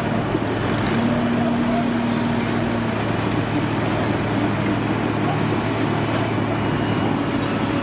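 Heavy diesel engine of a truck or construction machine running steadily, a low even hum with a held higher tone from about one to three seconds in.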